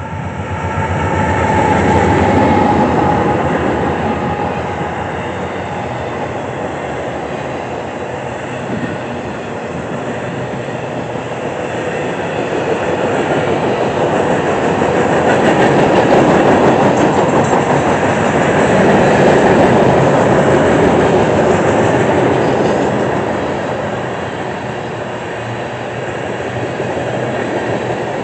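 Two GE diesel freight locomotives passing close by with their engines running, loudest a couple of seconds in. After them, a long string of loaded freight cars, covered hoppers and tank cars, rolls past with steady wheel-on-rail rumble and clatter that swells and eases.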